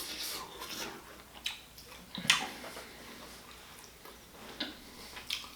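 Eating sounds from a whole boiled lobster: a handful of separate sharp clicks and crackles of shell and meat being worked and chewed, the loudest a little past two seconds in.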